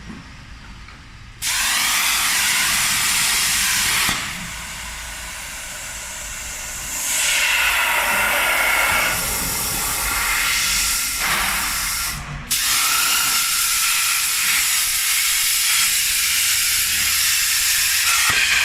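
Plasma torch on a Hypertherm-powered CNC plasma cutter cutting pipe: a loud, steady hiss of the arc and air jet that starts abruptly about a second and a half in. It eases off for a few seconds, comes back strong, and cuts out for a moment about two-thirds of the way through before starting again.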